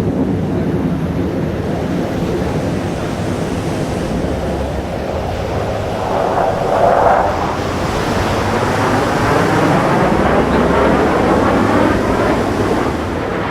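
Jet noise from Thunderbirds F-16 Fighting Falcons flying past: a steady, loud rushing roar that swells about halfway through, then takes on a sweeping, phasing sound as the jets go over.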